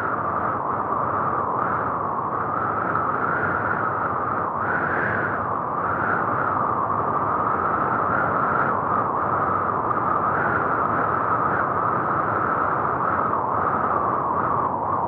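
Steady rushing road and wind noise of a car driving through a blizzard, with no clear engine note.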